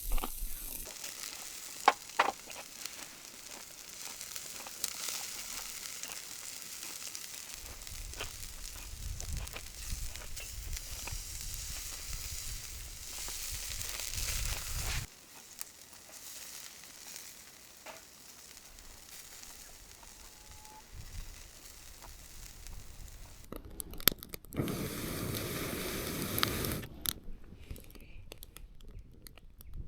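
Food sizzling in a hot pan, with scattered sharp clicks. About halfway through it cuts off suddenly to quieter handling and crinkling sounds.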